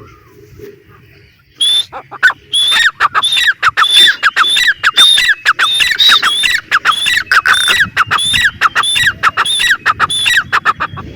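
Grey francolin (teetar) calling: a fast, evenly paced run of loud, sharp, repeated notes, two or three a second, starting about a second and a half in and running to near the end.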